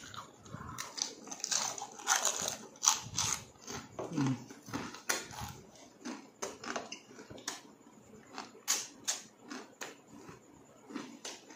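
Close-up mouth sounds of a person eating pork innards: wet chewing and lip smacks in an irregular run of sharp clicks.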